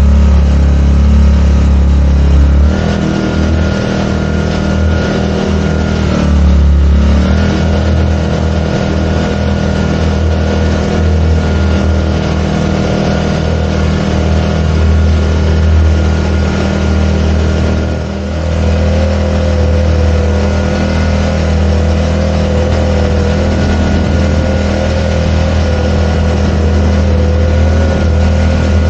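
Small 4 hp four-stroke outboard motor running steadily, driving a kayak. Its pitch and loudness dip briefly a few times: near the start, at about six to seven seconds and around eighteen seconds.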